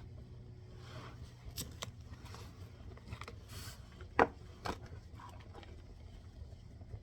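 Oracle cards and a card deck being handled: scattered light scrapes, rustles and taps, with one sharper knock about four seconds in, over a faint steady low hum.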